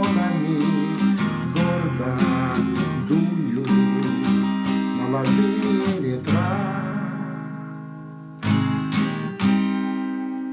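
Acoustic guitar strummed in a song's outro. Steady strumming for about six seconds, then a held chord ringing out, and two final strums near the end left to fade.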